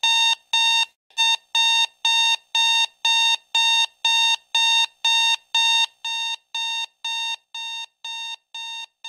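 Electronic alarm clock beeping in a steady run of short, identical high beeps, about two to three a second. The beeps drop in loudness about six seconds in.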